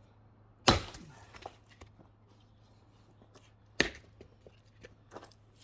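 Axe blows splitting firewood: two hard strikes into a log about three seconds apart, followed by a few lighter knocks of wood near the end.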